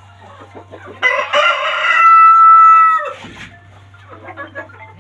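A Brahma rooster crowing once: a rough start about a second in, then a long held note that breaks off about three seconds in.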